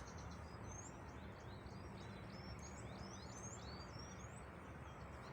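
Faint outdoor ambience with small birds chirping throughout: many short, high chirps and quick rising and falling whistles over a steady low hiss.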